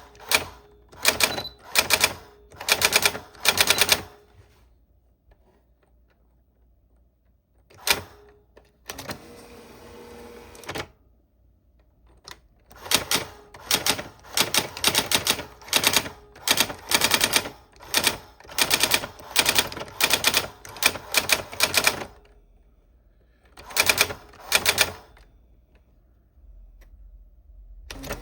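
Old typewriter typing: runs of rapid key strikes in bursts separated by pauses of a few seconds, with a steadier noise lasting about two seconds around ten seconds in.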